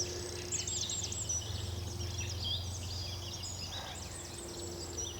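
Small birds singing, a busy run of quick high chirps and trills, over a steady low hum.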